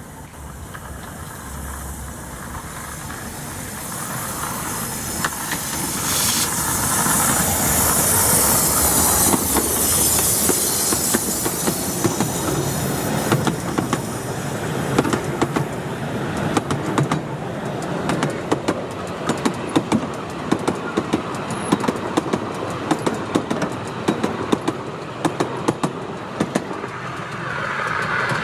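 A miniature railway train running past on its track, growing louder over the first several seconds with a burst of hiss, then a long run of rapid, irregular clicks from the wheels crossing the rail joints: the clickety-clack of the rails.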